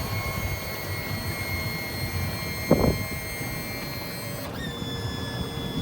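Hurricane 2400 deck boat's engine running at low speed with a steady whine over a low rumble. The whine shifts in pitch about four and a half seconds in. There is one short knock near the middle.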